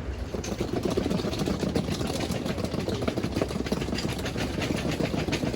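A vehicle's engine running, with a fast, irregular clicking rattle over it.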